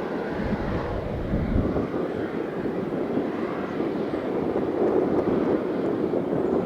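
Boeing 787-9 Dreamliner jet engines on landing approach: a steady roar that slowly grows louder.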